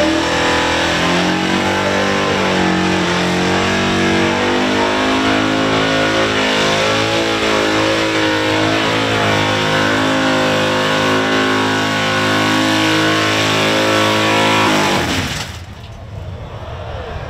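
396 V8 engine of a 1972 one-tonner ute held at high revs through a burnout, then cutting out suddenly about fifteen seconds in as the engine fails.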